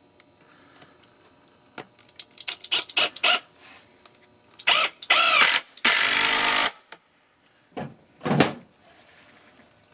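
Power drill driving screws in several short bursts, its motor whirring up and down, after a few clicks of parts being handled.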